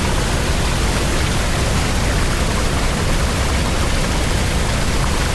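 Steady, loud rush of water flowing down a canyon streambed, an even hiss with no distinct events.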